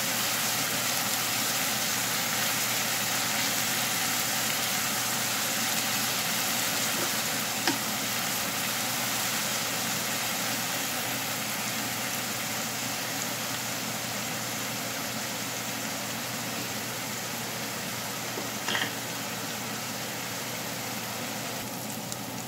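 Chopped onions sizzling in hot oil in a stainless steel frying pan: a steady frying hiss that eases a little as it goes on, with a brief knock twice.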